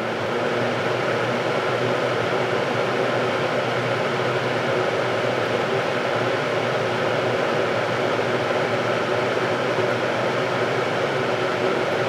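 Vintage Hunter model 11027 seven-bladed box fan running steadily on high speed: a rush of moving air over a steady motor hum, the motor freshly cleaned and oiled.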